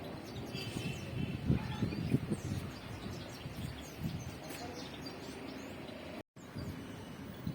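Birds chirping over a low, uneven rumble, with a few louder knocks about one and a half to two seconds in.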